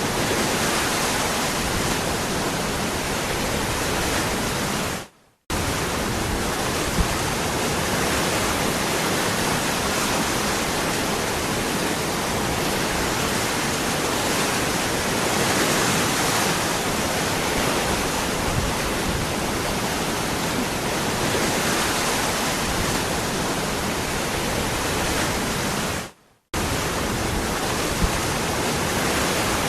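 Steady, even rushing of a waterfall. Twice the sound briefly fades away to silence and cuts straight back in.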